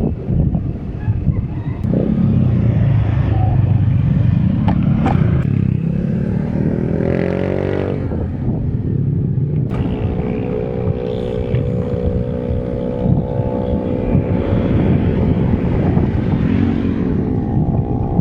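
Road traffic with wind rumbling on the microphone; a motor vehicle's engine rises in pitch about seven seconds in, then a steady engine drone holds through the second half.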